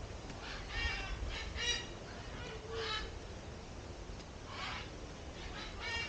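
Birds calling: short, harsh pitched calls repeated several times, a cluster in the first three seconds and more near the end.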